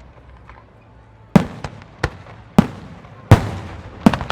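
Aerial fireworks shells going off in a display: a lull, then about half a dozen sharp booms in quick succession from about a second and a half in.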